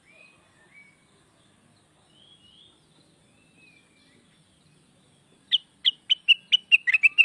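Orange-spotted bulbul (cucak wilis) calling: soft gliding whistles, then about two-thirds of the way in a loud run of about nine sharp notes that come faster and faster.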